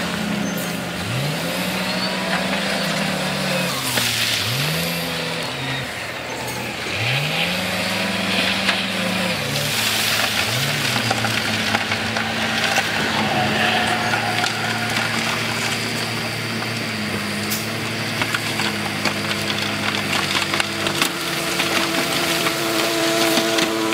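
Heavy diesel earthmoving machinery at work: a steady engine drone with engines revving up and easing off four times in the first eleven seconds or so, and scattered clatters of rock.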